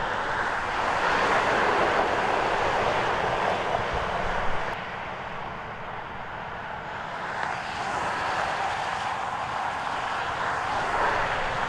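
Steady freeway traffic noise, vehicles rushing past in swelling and fading waves, with a lull about five seconds in.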